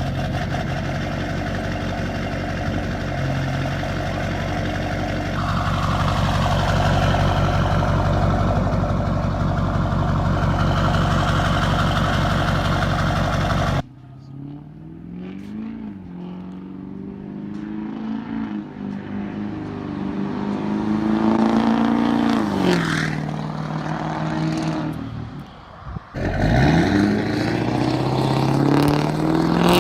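Duramax LB7 6.6-litre V8 turbo diesel of a 2004 Chevy 2500HD running through a 4-inch straight-piped exhaust. It runs steadily at first, then in later shots it is revved up and let fall back several times, ending on a quick climb in revs.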